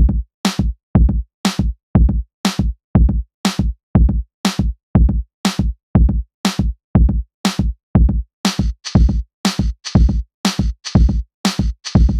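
Electronic drum-machine beat: an evenly repeating pattern of kick-drum and sharp higher hits, with no voice. From about eight and a half seconds in, a hissing cymbal layer joins between the strokes.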